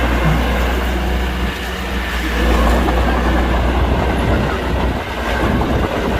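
Heavy diesel construction machinery running: a loud, steady low engine rumble with dense rattling clatter over it.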